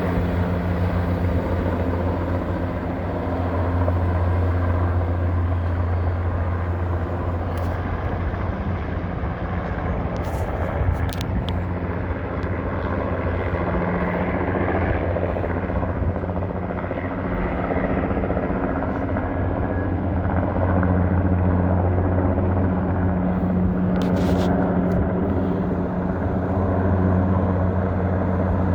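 Erickson S-64 Aircrane heavy-lift helicopter running, a steady low rotor drone with turbine engine noise that grows a little louder in the second half.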